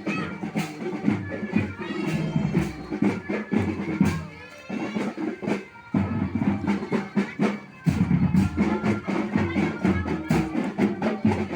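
School marching band playing: drums beating a steady march rhythm with wind or keyboard melody instruments sounding over them.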